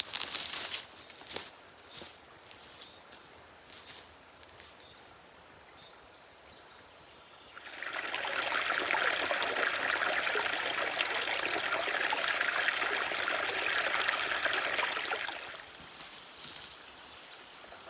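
Water running steadily for about eight seconds, starting about eight seconds in and stopping shortly before the end. Before it, a few light clicks and rustles and faint high chirps.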